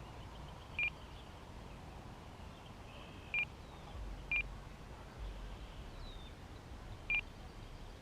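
Short electronic beeps from a Spektrum RC transmitter: four single beeps at the same pitch, irregularly a second or three apart.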